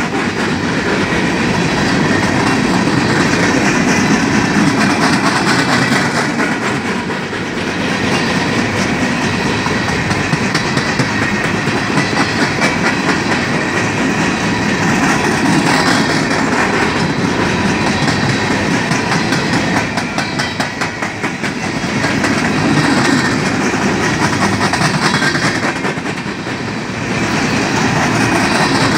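Freight train of coal gondola cars rolling past at close range: a steady, loud rumble of steel wheels on rail with the clickety-clack of wheel trucks passing, dipping briefly in loudness a few times.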